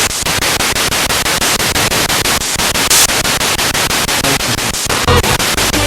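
Spirit box radio sweeping through stations: loud static chopped into short pieces several times a second, with a brief fragment of broadcast sound near the end.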